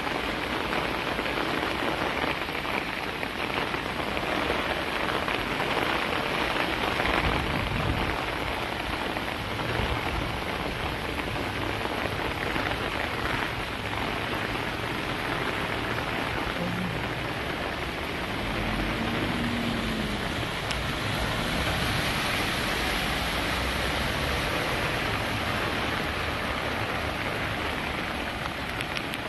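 Heavy rain falling steadily in a continuous hiss.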